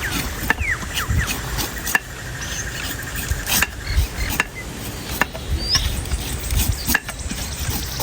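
Sharp knife striking and cutting into the hard husk of an old coconut: irregular sharp chops, several a second at times, with a low rumble underneath.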